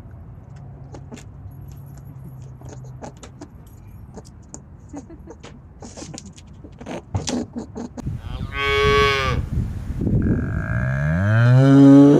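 Cattle mooing: a short, higher call about eight seconds in, then a long low moo that rises in pitch near the end, after a stretch of faint scattered clicks and rustles.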